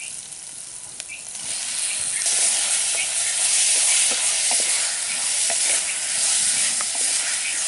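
Onions, green chillies and freshly added tomatoes sizzling in oil in a hot clay pot, with a wooden spatula scraping and stirring them. The sizzle swells louder about two seconds in.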